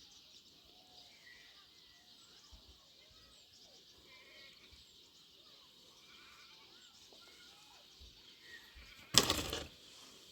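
Goats and sheep bleating faintly at a distance, then one loud, short, rough bleat close by about nine seconds in.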